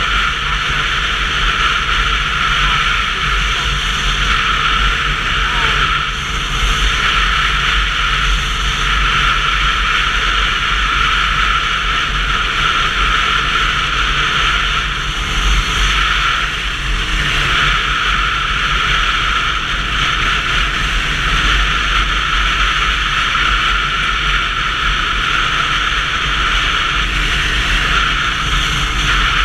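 Steady wind and road noise from riding a Sinnis Terrain 125cc motorcycle, picked up by a helmet-free action camera with a deep rumble underneath a constant rushing hiss. The level barely changes, with only slight dips now and then.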